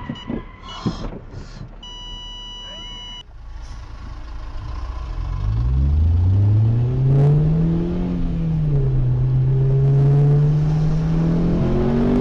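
A car engine accelerating: its pitch climbs for several seconds, dips back, holds steady, then starts climbing again near the end. A couple of seconds in, there is a short electronic beep, and a few clicks come before the engine builds.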